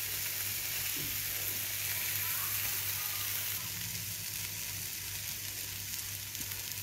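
Egg-and-milk-soaked bread slices sizzling steadily in ghee on a hot tawa, a flat griddle, with a steady low hum underneath.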